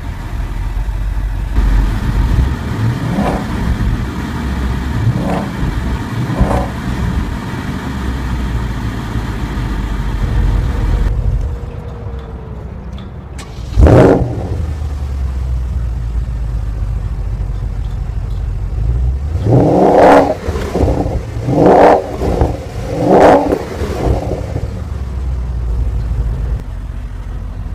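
Porsche Panamera GTS's 4.8-litre naturally aspirated V8 running just after start-up and revved in short throttle blips: a few early on over the idle, one sharp blip about halfway, and three more in quick succession near the end.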